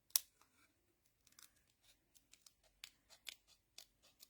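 Scissors making short, irregular snips through paper, fussy-cutting a stamped image by hand; the sharpest snip comes just after the start.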